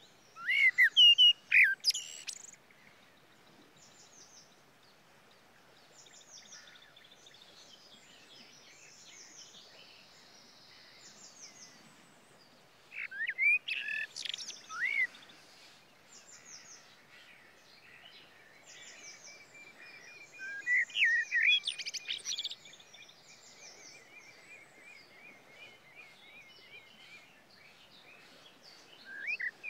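Birdsong: loud clusters of short, swooping calls come near the start, about 13 seconds in, about 20 seconds in and again at the very end. Between them run softer high chirps, and through the second half a long, even trill.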